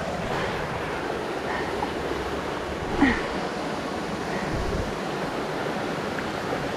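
Steady rush of water from a rock waterfall's cascades, with one short, sharper sound about three seconds in.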